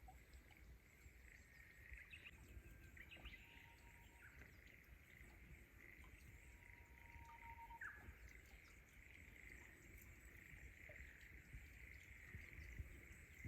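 Faint outdoor night ambience: a steady, quiet insect drone, with a few short faint chirps and a brief whistle-like tone here and there.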